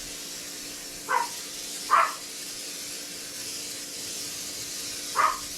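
Three short, high-pitched cries from a household pet, about a second in, at two seconds and near the end, over a steady background hiss.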